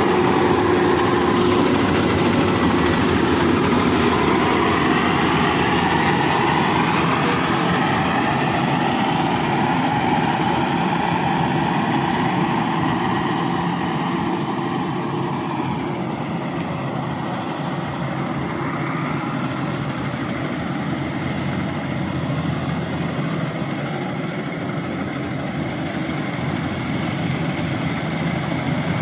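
Rice combine harvester's engine and machinery running steadily, with a slight drift in pitch and a little quieter in the second half.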